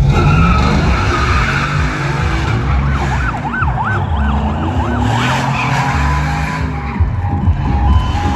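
Vehicle engines running over a haze of tyre-skid noise. About three seconds in, a siren wails rapidly up and down, then switches to a two-tone hi-lo alternation near the end.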